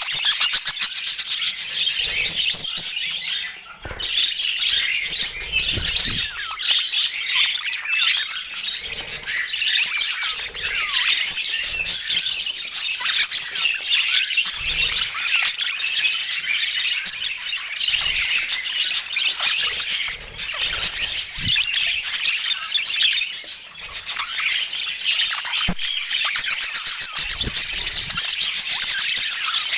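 A flock of budgerigars chattering and chirping continuously, with two brief lulls.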